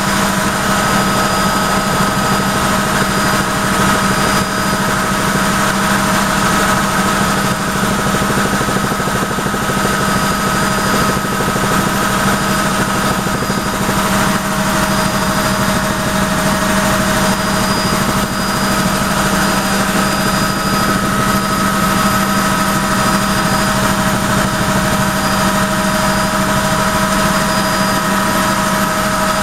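Helicopter in flight, heard from inside the cabin: a loud, steady running noise with several constant whining tones.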